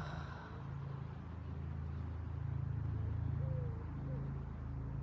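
A woman's low, sustained vocal tone, a deep drone from the belly held with small shifts in pitch, made while releasing energy by toning.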